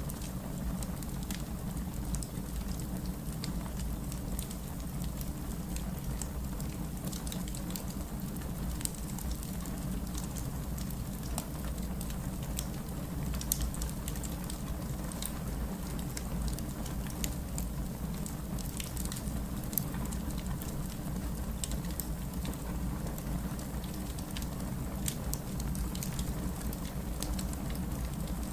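Wood fire burning in a fireplace, with a steady low rumble and frequent small, sharp crackles and pops.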